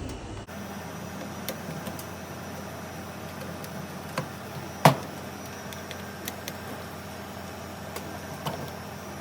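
A few scattered clicks and knocks of plastic parts being handled as a washer drain pump is worked loose from its pump housing, with one louder knock about five seconds in.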